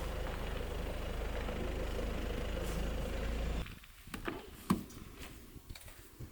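A vehicle engine running with a steady low hum that stops abruptly a little past halfway. A few clicks and one sharp knock follow.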